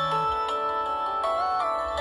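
Nokia 1112 mobile phone playing one of its built-in ringtone melodies: a synthesized tune of bell-like notes over a moving bass line.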